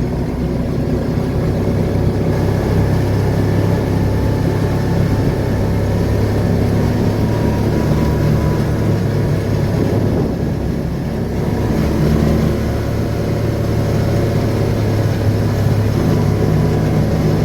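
Vehicle engine running steadily while driving, a constant low hum with road noise.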